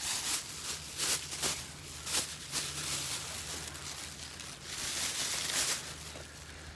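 Wood campfire burning in a small fire grate: irregular crackles and pops over a soft hiss.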